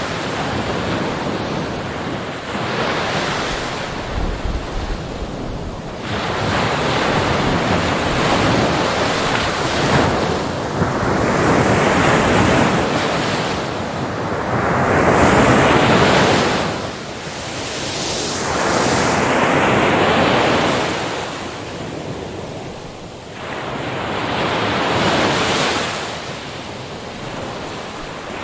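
Ocean surf: waves breaking and washing up the beach, the sound swelling and falling away every few seconds.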